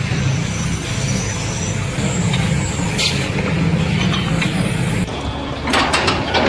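A heavy engine running with a steady low rumble. About five seconds in, the sound changes, and a few sharp knocks or clatters follow near the end.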